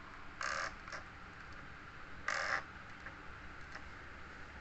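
Two short harsh bird calls about two seconds apart, over a steady hiss.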